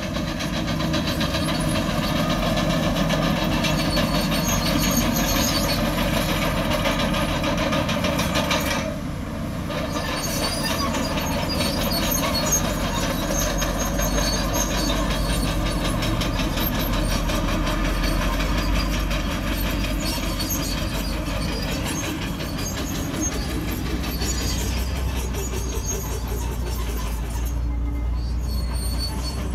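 Komatsu D51PX bulldozer running steadily with its steel tracks clanking as it works, with a short dip about nine seconds in.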